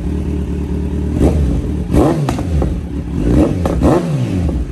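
Superbike engine with an Akrapovic exhaust idling, then revved twice, the pitch climbing and dropping back each time.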